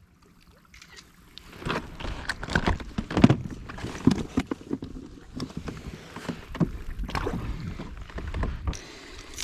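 Irregular knocks, clunks and rustling of gear being handled aboard a plastic fishing kayak while a freshly caught bass is dealt with. The sounds begin about a second in.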